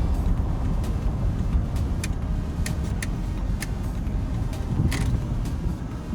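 A vehicle's steady low rumble, with about seven short sharp clicks scattered through it.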